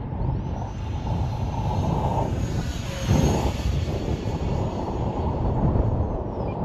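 RC airplane flying past, its motor whine rising and falling in pitch as it passes about three seconds in. Heavy gusting wind runs under it.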